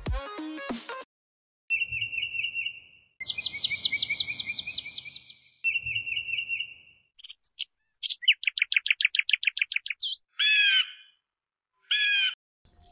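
Birds chirping: a series of rapid trills and runs of repeated high notes, in separate bursts with short silent gaps between them.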